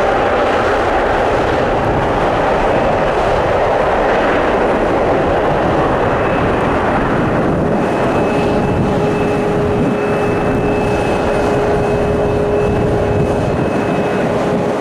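Boeing 777 jet engines running: a loud, steady rush of noise, with steady whining tones that come in about six to eight seconds in.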